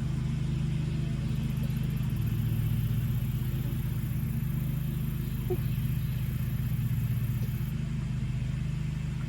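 A steady low mechanical drone, like an engine or motor running, holding unchanged throughout.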